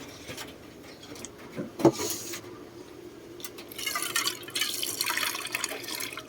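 Fresh water being poured into a pigeon drinker: a single knock about two seconds in, then a splashing, hissing pour for the last few seconds.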